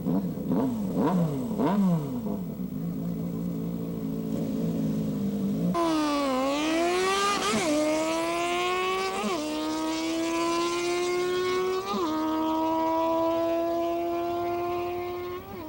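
Single motorcycle engine blipped a few times and idling, then launching about six seconds in and accelerating hard: the pitch climbs in each gear and drops sharply at each of four gear changes, typical of a drag-race run. The engine note fades near the end.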